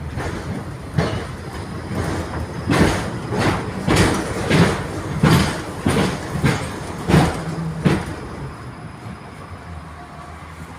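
71-631 tram running along the track, its wheels knocking over rail joints in a run of about a dozen sharp clacks over some seven seconds, then settling into a quieter steady rumble near the end.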